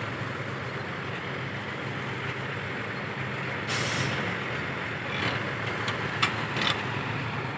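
Heavy diesel engine running steadily, with a short burst of hissing air a little under four seconds in and a few shorter hisses and clicks near the end.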